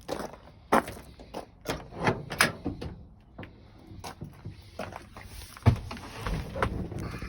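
A string of irregular sharp clicks and knocks, with the loudest knock about five and a half seconds in, then a low rumble building near the end.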